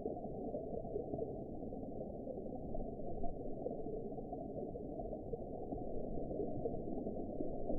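Steady underwater ambience: a deep, muffled rush and gurgle of water with all its sound below about 1 kHz and no distinct events.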